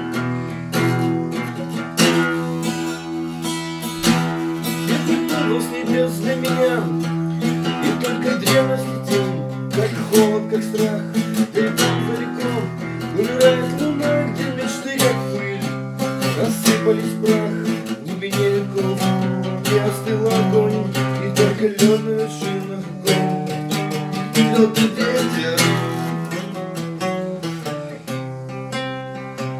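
Acoustic guitar playing an instrumental passage: strummed chords with a wavering melody line over them.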